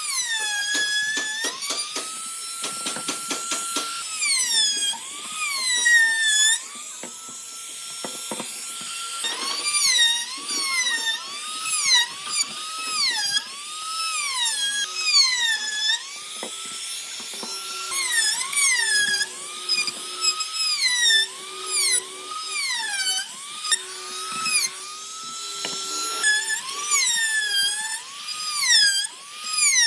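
High-speed handheld power tool working wood. Its motor whine sags in pitch about once a second as it bites in under load and rises again between passes, with a quick run of clicks about two to four seconds in.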